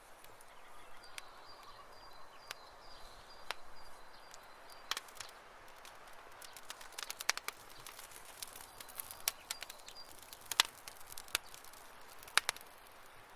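Wood campfire crackling, with irregular sharp pops and snaps over a soft low hiss of burning. A few pops stand out louder, one about halfway through and two near the end.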